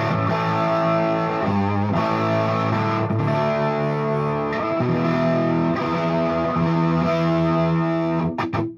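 Electric guitar, a Gibson Les Paul Standard, played through a Fuchs Train-45 tube amp with 6V6 power tubes and a Vintage 30 speaker. Chords and notes ring out and change steadily. The playing is cut off near the end with a few muting clicks.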